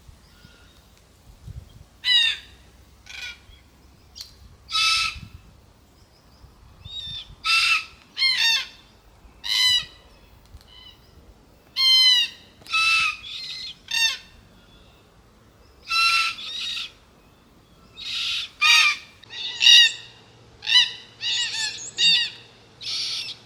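A flock of forest red-tailed black cockatoos calling: a string of short, harsh, creaking calls from several birds, some overlapping, each lasting under a second.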